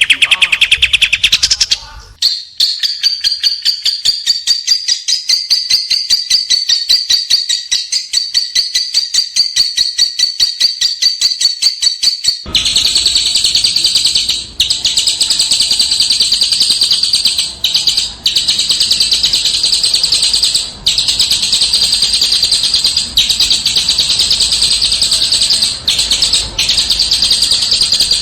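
Small songbird singing very fast, densely repeated high trills. About two seconds in, the song turns to a rapid run of high notes. Near the middle it switches abruptly to a denser, harsher high chatter over a background hiss, broken by a few brief pauses.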